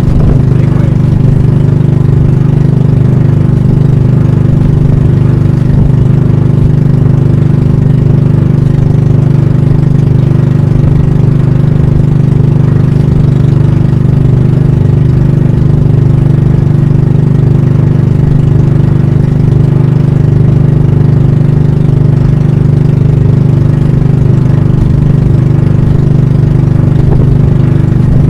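Banka (pump boat) engine running loud and steady at an even speed, with no revving.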